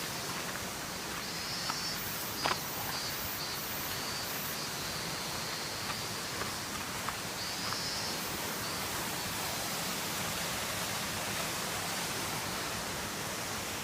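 Waterfall's rushing water, a steady even roar with a few faint clicks over it.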